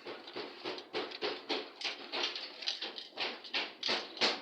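Rhythmic scraping strokes, about three a second, growing louder near the end.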